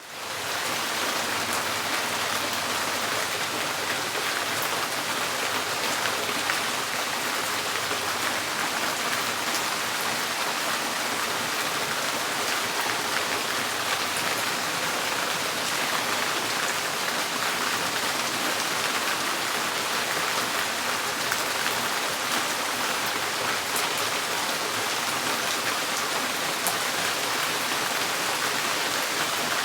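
Steady rain drumming on a tin porch roof, a dense even patter with scattered sharper drop ticks.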